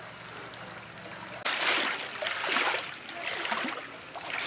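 Floodwater rushing and splashing: a low hum, then loud surging water noise from about a second and a half in.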